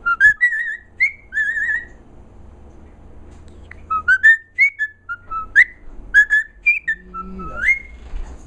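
A pet bird whistling two runs of short notes, the first with wavering trills, the second of quick rising whistles, about two seconds apart.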